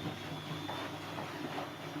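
Siemens Siwamat C10 washing machine running: a steady motor hum with a thin high whine, and irregular knocking and rattling from the drum.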